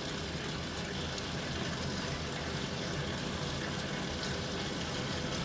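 Water running into the tub of a Living & Co 5.5 kg top-load washing machine as it fills for a warm wash: a steady rush of water with a low hum underneath.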